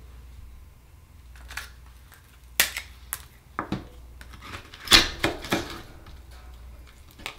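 Sharp clicks and knocks of akoya oyster shells and a metal opening tool being handled, about five of them, the loudest about five seconds in, over a low steady hum.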